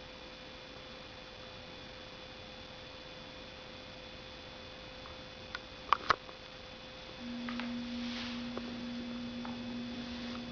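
Faint steady electrical hum, broken by a few sharp clicks about six seconds in, then a louder steady low hum that starts about seven seconds in and stops near the end.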